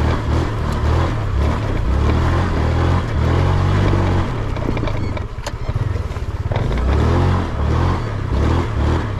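Honda Click 125cc scooter's single-cylinder engine running under load up a steep dirt hill climb, its pitch rising and falling with the throttle. About five seconds in it eases off briefly with a single sharp knock, then pulls again.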